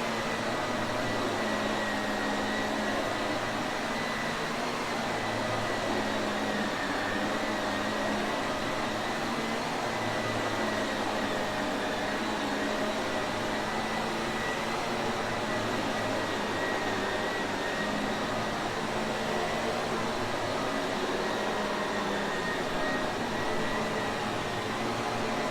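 Shark Navigator vacuum cleaner running steadily, its motor giving a constant rushing noise with a thin high whine and a lower hum.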